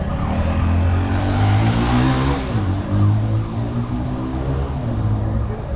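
A motor vehicle's engine running close by on the street, its low hum steady, with engine and tyre noise swelling about two seconds in as it passes.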